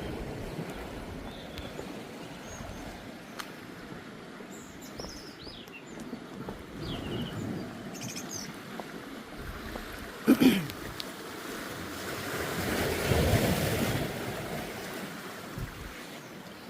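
Sea waves washing against shore rocks, with one wave swelling up louder about 12 seconds in. Small birds chirp faintly, and a single loud call falling in pitch sounds briefly about 10 seconds in.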